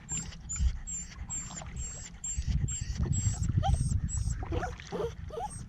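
Dog whining in a string of short, rising whimpers over a low rumble.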